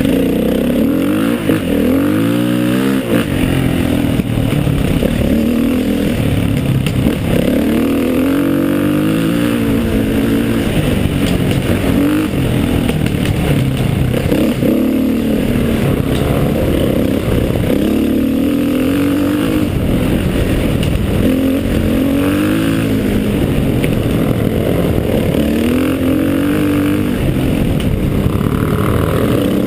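Trail motorcycle engine climbing a dirt hill, its pitch rising and falling back every few seconds as the throttle is opened and eased off.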